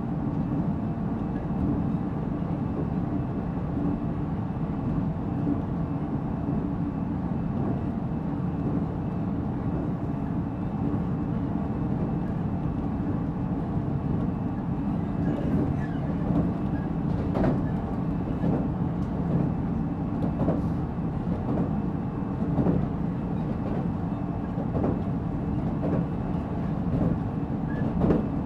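Interior running sound of a JR Central 313 series electric multiple unit, heard inside the motor car: a steady rumble of the train under way. Rail-joint clicks come in over the second half.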